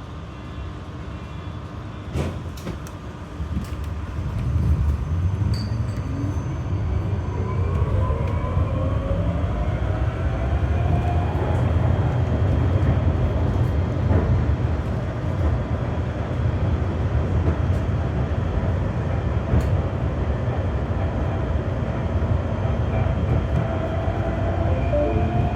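GT tram heard from on board pulling away: a click, then the running rumble rises, and the traction motors' whine climbs steadily in pitch as it accelerates, then holds while the tram runs along at speed.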